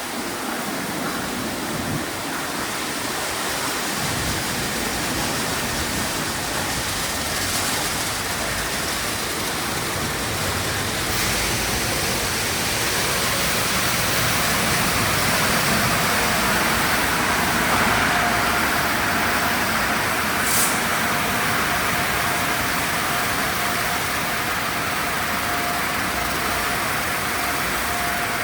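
Sonny's tunnel car wash equipment running, a steady rushing noise like spraying water and air that grows a little louder in the middle. A steady whine joins about halfway through, and a single sharp click comes about two-thirds of the way in.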